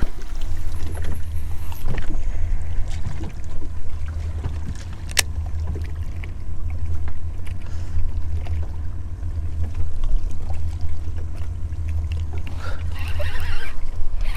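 Low, gusting wind rumble on the microphone out on a kayak, with small water and gear noises and one sharp click about five seconds in.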